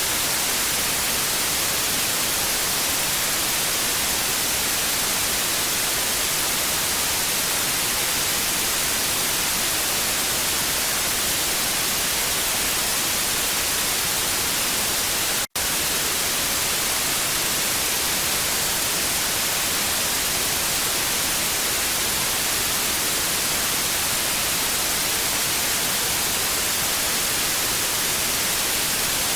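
TV static: a steady, even hiss weighted toward the high end, broken by a split-second dropout about halfway through.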